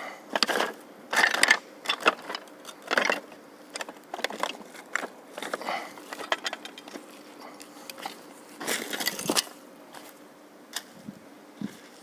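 Footsteps crunching and crackling over dry litter and debris: irregular steps about a second or more apart, the loudest near the start and around nine seconds in.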